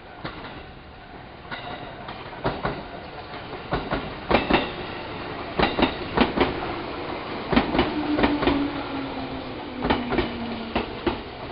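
205-series electric train rolling at low speed, its wheels clacking over rail joints in quick pairs and clusters over a steady rumble. A low whine slowly falls in pitch in the second half.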